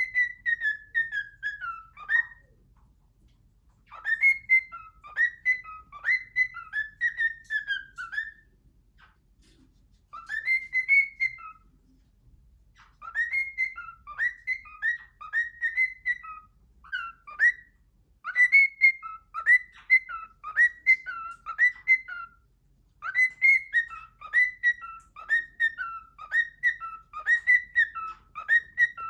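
Male cockatiel whistling his song: bouts of short, quick whistled notes, many falling in pitch, with short pauses between bouts.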